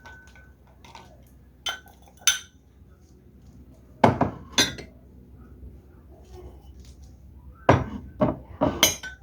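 Dishes, glassware and cutlery clinking and knocking while being handled: about eight separate sharp clinks, two early, a pair near the middle and a quick cluster near the end.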